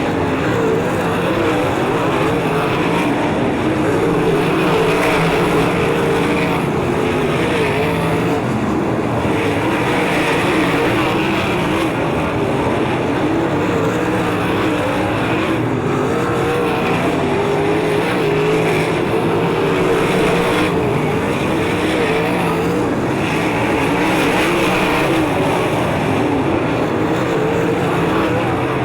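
360 sprint car V8 engines racing on a dirt oval: a loud, continuous engine sound whose pitch wavers up and down throughout.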